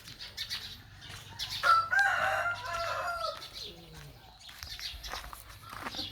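A single long animal call lasting about a second and a half, starting about two seconds in, with a slight rise and a fall at its end, amid scattered faint chirps and clicks.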